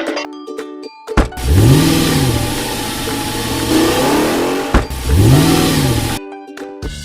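A car engine revving, rising and falling in pitch twice over about five seconds, with a loud rushing noise around it. A short stretch of music comes before it and returns near the end.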